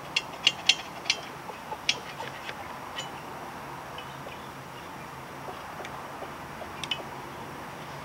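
Sharp metallic clicks and clinks of hand tools working on a motorcycle exhaust: a quick run of about seven in the first two seconds, then a few scattered ones near the end.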